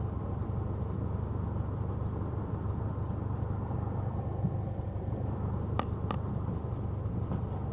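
Cessna 172's piston engine running steadily at low power while taxiing, a constant low drone. Two short clicks come about six seconds in.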